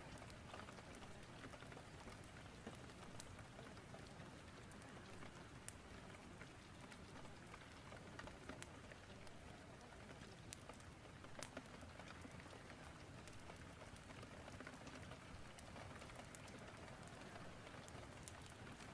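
Faint steady rain ambience with scattered sharp crackles, in a rain-and-fireplace ambience mix.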